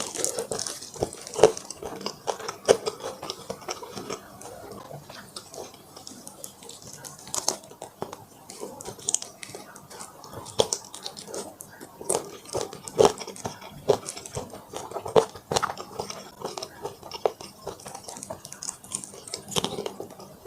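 Close-miked eating: a person chewing and biting food with wet mouth clicks and smacks, many short irregular bites and chews throughout.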